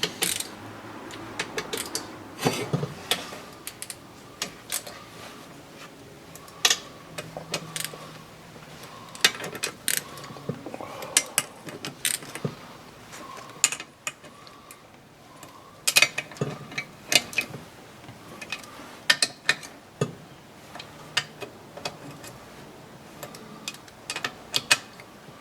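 Metal hand tools working on a KTM 300 engine's crankcase as the bottom end is bolted together: a run of sharp, irregular clicks and clinks.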